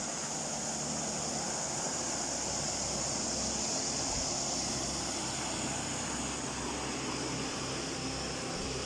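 Stream water from Hebbe Falls rushing steadily over rocks, with a constant high-pitched insect drone over it.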